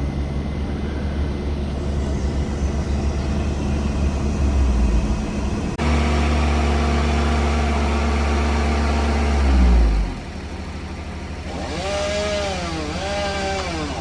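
Heavy machinery engine running steadily, then winding down in pitch about ten seconds in. A fainter wavering whine rises and falls after it.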